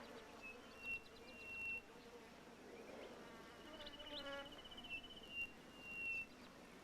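Faint natural ambience of high, thin trilling calls that come and go, one after another, with a brief lower call about four seconds in.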